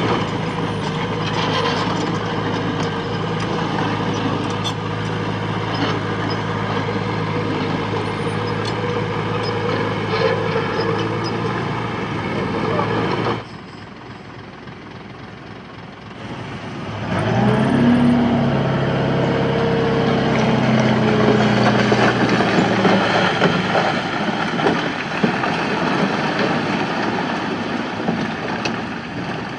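Diesel engine of heavy earthmoving machinery running steadily under load. It drops away abruptly about 13 seconds in, then comes back with the engine revving up about 17 seconds in and runs on.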